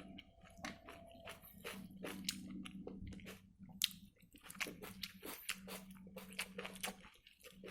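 Close-up mouth sounds of a person eating rice, dal and egg: a run of quick, irregular wet smacks and chewing clicks, over a steady low hum.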